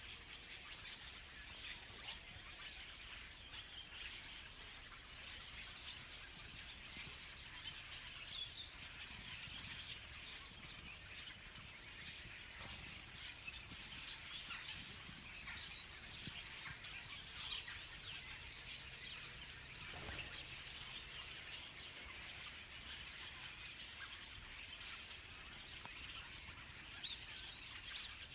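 A large flock of songbirds in birch trees, massed before migration, calling all at once in a dense, continuous chorus of high chirps. One brief louder click cuts through about two-thirds of the way in.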